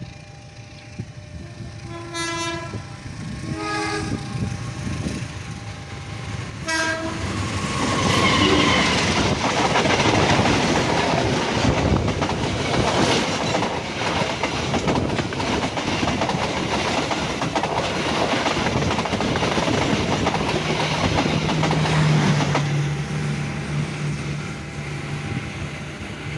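Horn of a CC 201 diesel-electric locomotive hauling the Brantas passenger train sounds three short blasts. The train then passes close by with loud wheel clatter for about fifteen seconds, and the noise fades near the end.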